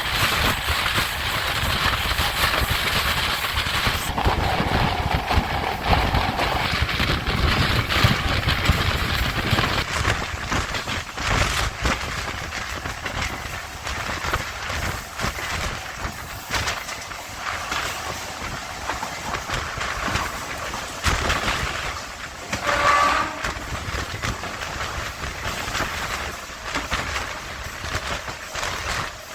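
MEMU electric train running along the track, with a steady rumble and wheels knocking over rail joints. A short pitched sound rises out of the noise about five seconds in and again near the end.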